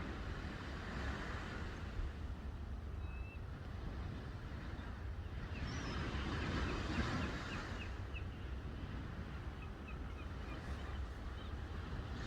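Sea waves washing onto the shore in slow swells, with short high bird calls chirping over them a few times in the middle.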